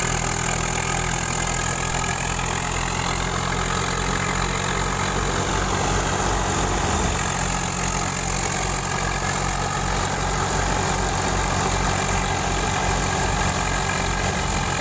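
Swaraj 744 FE tractor's diesel engine running steadily at idle.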